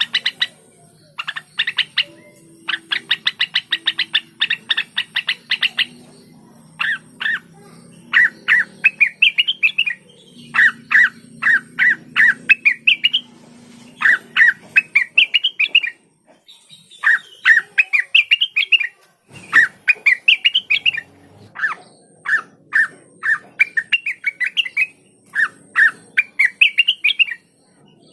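Blue-winged leafbird (cucak wilis) singing loudly. Its song opens with fast trills of rapidly repeated notes, then runs through phrases of short, upward-sweeping whistled notes separated by brief pauses.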